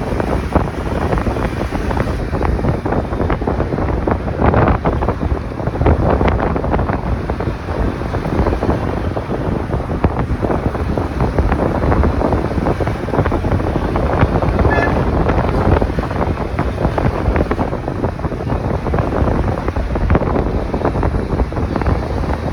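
Wind buffeting the microphone of a camera riding on a moving motorcycle, a loud, steady rush with the bike's engine and road noise underneath.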